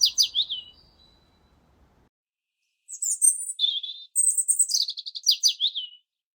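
Songbird singing: a phrase of high chirps, a lower buzzy note and a run of quick down-slurred notes, trailing off within the first second. After a short silent gap the same phrase starts again about three seconds in and ends near the end.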